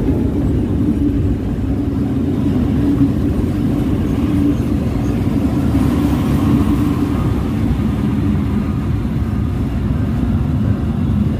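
Passenger train coaches rolling past: a steady, loud rumble of wheels on the rails.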